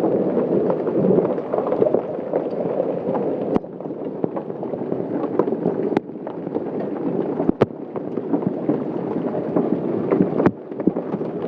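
Heavy hail and rain pelting down in a dense, steady clatter of stones striking the ground, plants and other surfaces, with a few sharper clicks standing out.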